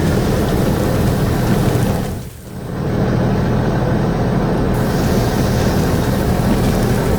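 Heavy construction machine engine rumbling steadily with a noisy mechanical roar. It drops out briefly about two seconds in, then comes straight back.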